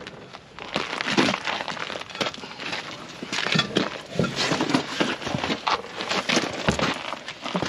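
Irregular knocks, clicks and scraping from hand work on a tractor wheel during a tire swap.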